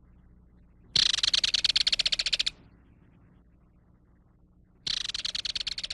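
Kingfisher giving its dry, rapid rattle call twice, each rattle lasting about a second and a half.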